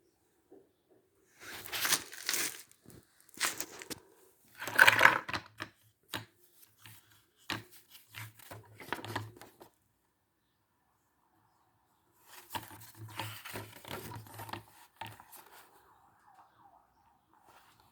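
Irregular tearing and crinkling noises with sharp knocks, in two spells with a quiet gap of a few seconds between them.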